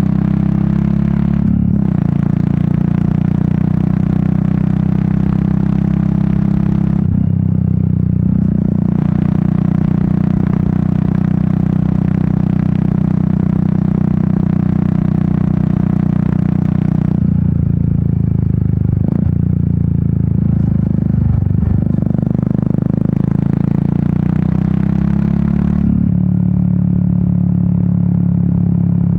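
Royal Enfield Meteor 350's single-cylinder engine and exhaust running steadily under way, heard from the rider's seat. The engine note eases off briefly about seven seconds in and for a longer stretch from about seventeen seconds, its pitch shifting as the throttle is rolled back, then picks up again near the end.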